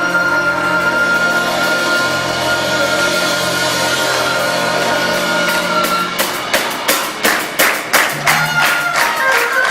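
School band playing: a sustained chord from the winds, then about six seconds in a run of sharp percussion hits, roughly three a second, before a new chord comes in near the end.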